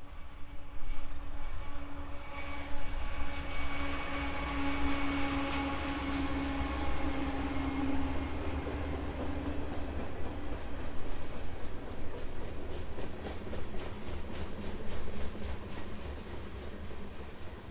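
Freight train's diesel locomotives passing with a steady engine drone, which fades after about ten seconds. The rail cars follow, clattering over the rail joints in a quick, even rhythm.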